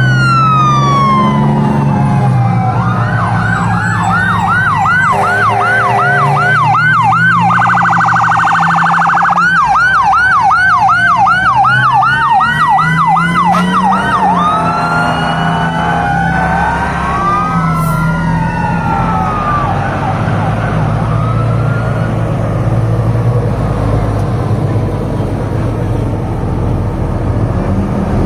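Fire truck sirens passing: a slow wail, then a fast yelp about two to three sweeps a second, with a couple of seconds of very rapid warble in the middle, then several wails overlapping. About two-thirds of the way in the sirens fade, leaving the low rumble of truck engines and road noise.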